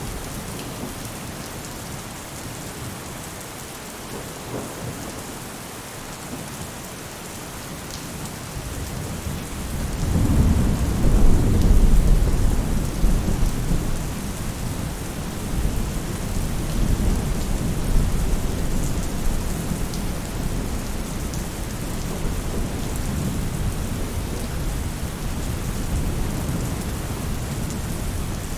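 Steady rain falling on a roof, with a long roll of thunder that builds about ten seconds in, peaks shortly after and rumbles on more softly through the rest.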